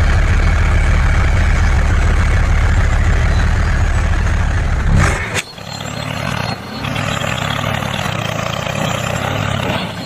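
A vehicle engine running steadily with a deep rumble. About five seconds in it cuts off abruptly and gives way to a quieter engine sound with a different low hum.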